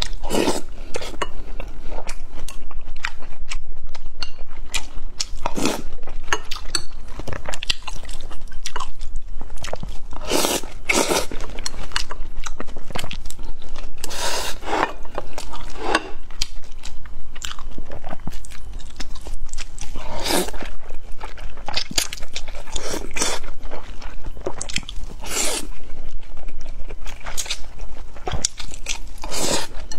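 Close-miked mukbang eating sounds: wet chewing and mouth smacks on mouthfuls of rice and glass noodles with minced pork, with a run of quick clicks and several louder sucking strokes as noodles are drawn in.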